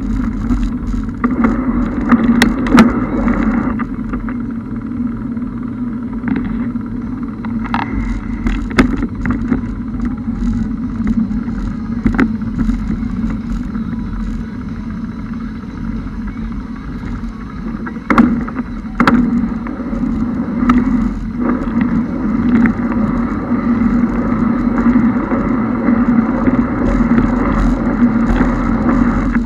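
A car driving, its engine giving a steady low drone under a rushing noise, with a few short sharp knocks scattered through.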